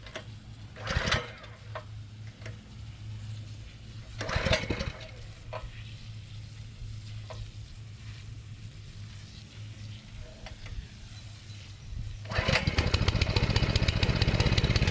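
Small gas engine on a pressure washer being started: two short loud bursts about one and four and a half seconds in, then about twelve seconds in the engine catches and runs loudly with rapid firing. A steady low hum lies underneath.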